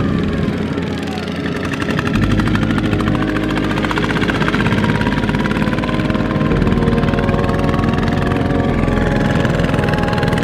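Single-cylinder Kubota diesel engine of a two-wheel walking tractor running steadily under load, its firing pulses coming in a rapid even beat.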